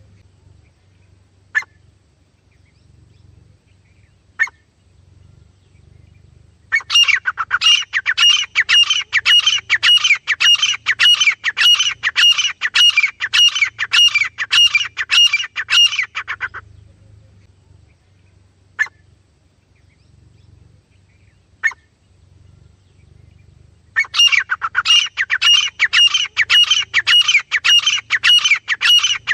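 Francolin (teetar) calling: long bouts of loud, rapidly repeated calls, with a gap in between broken only by a few single sharp notes.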